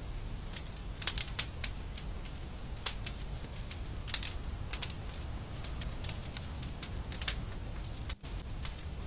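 Wood fire in a fireplace crackling, with sharp irregular pops over a steady low rumble; the sound briefly cuts out near the end.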